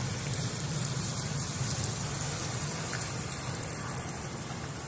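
Steady hiss of a hailstorm, hail and rain coming down without a break, with a low steady rumble underneath.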